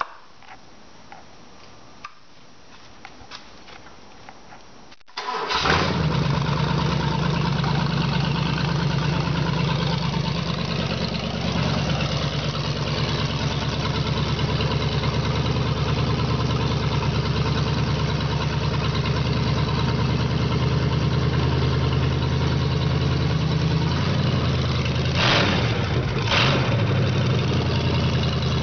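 Ford 400 V8 engine on a run stand starting about five seconds in after a quiet spell, then idling steadily. Two brief louder bursts come near the end.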